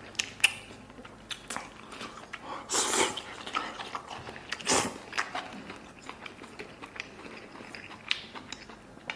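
Close-miked eating: chewing and biting mouthfuls of chili stir-fried pork belly over rice, with many small sharp clicks and a couple of louder, noisier bites about three and five seconds in.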